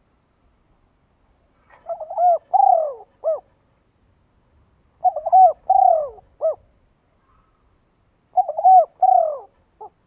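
A bird calling in three repeated phrases, each of three or four short notes, about three seconds apart.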